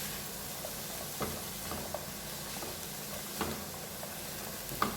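Chopped onion, carrot and green chilli sizzling in butter in a hot pan, with a few light knocks of a spoon against the pan as the vegetables are stirred.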